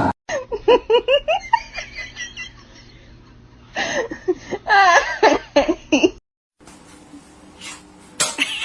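A person laughing and giggling in uneven bursts, cut off suddenly about six seconds in.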